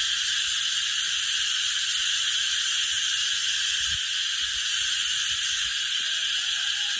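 A dense chorus of cicadas shrilling without a break, an ear-piercing high buzz.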